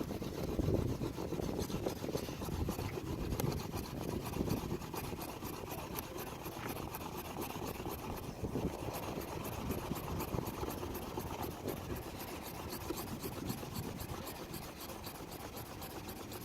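Bamboo fire saw: a piece of bamboo rubbed quickly back and forth across a notched bamboo, giving a steady run of rasping strokes. The wood is already charring and smoking, the stage just before an ember forms for the tinder.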